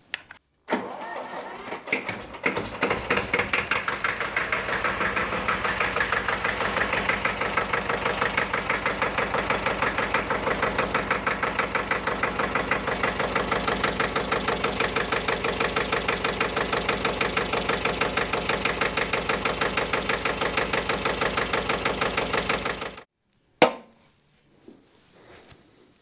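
Diesel engine being started, catching within the first couple of seconds and then idling steadily with an even knocking beat. It is run to find where it is leaking. It stops suddenly near the end, followed by a single sharp click.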